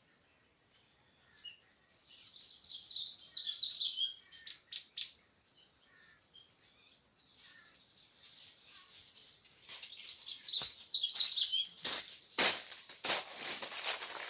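Insects shrilling in a steady high drone with a regular pulse about once a second. Birds chirp in two short bursts, about three seconds in and again about ten seconds in, and a few sharp knocks or rustles come near the end.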